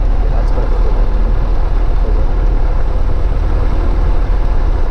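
Steady drone of a Cessna 152's Lycoming O-235 four-cylinder engine and propeller, heard from inside the cockpit.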